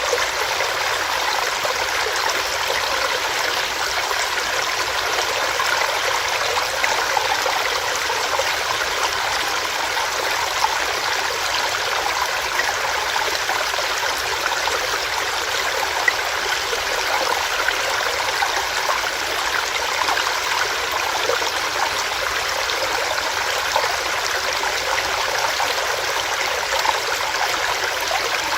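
Small stream of water running and splashing over rocks, a steady rushing babble.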